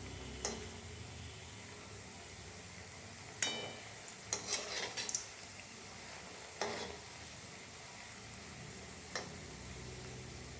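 A metal spoon or ladle clinking against a cooking pot, a few scattered strikes with a quick cluster in the middle, over a steady sizzling hiss from the pot on the stove.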